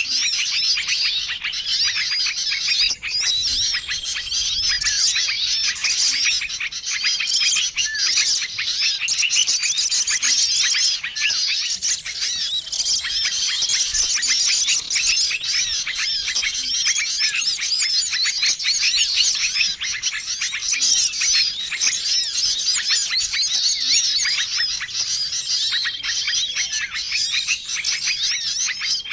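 A dense, noisy chorus of many small songbirds chirping and calling over one another without a break: a mixed bird-lure call track used to draw wild small birds in. A short, steady whistled note recurs every few seconds through the twittering.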